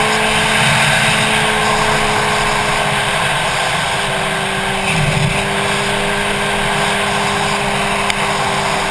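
Motorcycle engine running at a steady cruising speed, its note easing slightly lower about halfway through, under heavy wind rush on the helmet-mounted camera.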